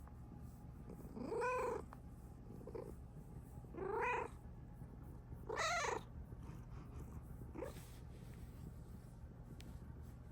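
Bengal cat meowing three times, short rising-and-falling meows about two seconds apart, with a couple of fainter chirps in between. The cat is content and happy.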